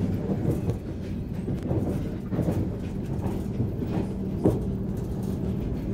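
Train running on rails: a steady low rumble and hum with irregular knocks from the wheels and cars, and one sharper clank about four and a half seconds in.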